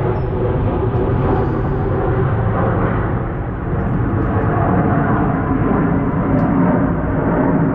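Aircraft engine noise from an airshow flyover, loud and steady with a slight dip midway.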